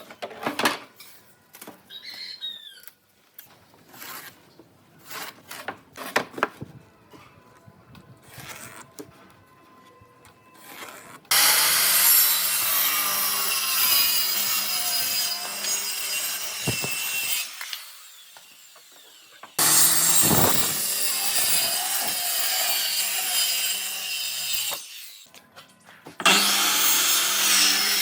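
Wood being worked with a tool: scattered light knocks and taps at first, then, from about 11 seconds in, three spells of loud sawing noise, each several seconds long and starting abruptly.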